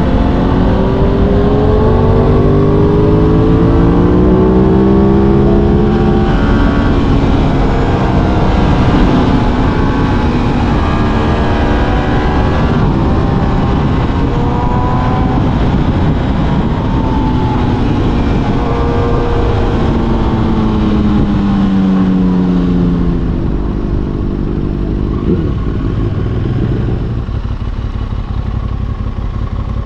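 Sport motorcycle engine under way, its pitch climbing and dropping several times as the rider accelerates, shifts and rolls off, over steady rushing wind noise. The sound eases somewhat in the last few seconds.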